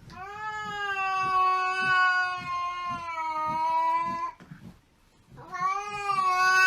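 A cat yowling: one long drawn-out call of about four seconds at a nearly steady pitch, then after a short pause a second long yowl begins.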